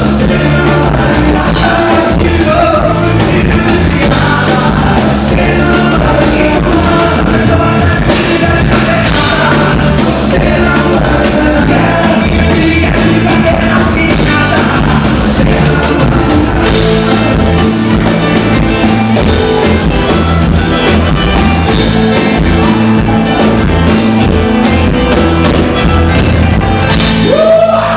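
Live dance band playing loud amplified music with a lead vocalist singing over a steady beat.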